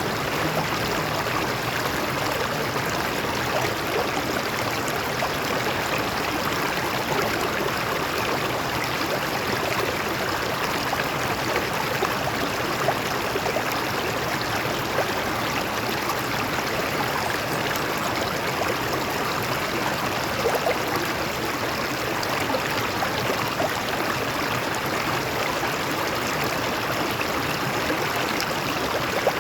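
Stream water flowing over rocks, a steady, even rush with no pauses.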